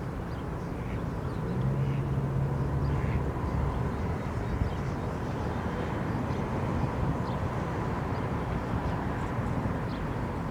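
Faint, short, high peeps of a mallard duckling, repeated at intervals over a steady low outdoor rumble.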